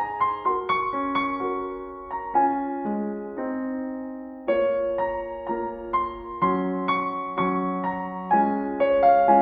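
Soft relaxation music played on piano: gentle arpeggiated notes that ring and overlap, with a held chord about four seconds in before the notes resume.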